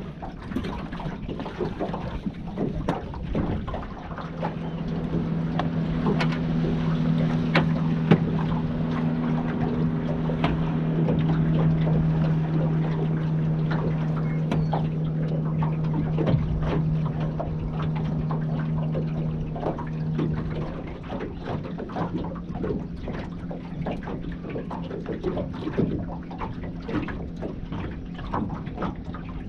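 A motorboat engine's steady drone, rising about four seconds in and fading out about twenty seconds in, over scattered clicks and knocks.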